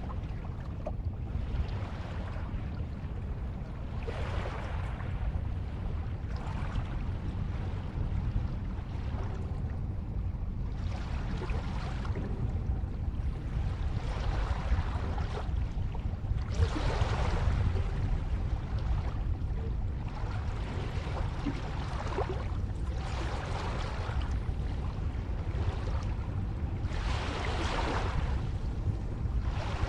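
Ocean waves breaking and washing on a shore, each wash swelling and fading every few seconds over a steady low rumble of surf.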